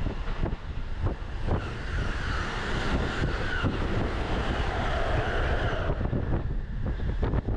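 Interior sound of a moving Utsunomiya Line commuter train: a steady low rumble of wheels on rail with rapid clicks from the rail joints. From about two seconds in, a rushing noise from a train passing close alongside on the next track swells and then cuts off suddenly near six seconds, when it has gone by.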